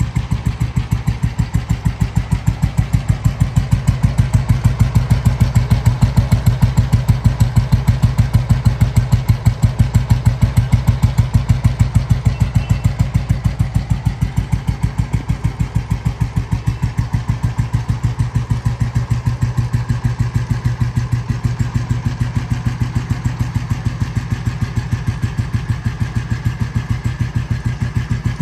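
1954 Royal Enfield G2 Bullet's single-cylinder four-stroke engine running at low revs, with a steady, even beat of firing strokes.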